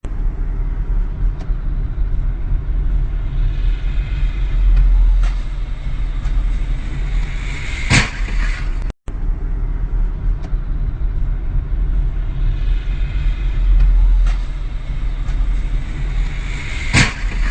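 Heavy low rumble of a vehicle on the road, with a higher hiss building up before a sudden sharp bang about eight seconds in, typical of a collision. After a brief drop-out the same stretch plays again, ending in the same bang near the end.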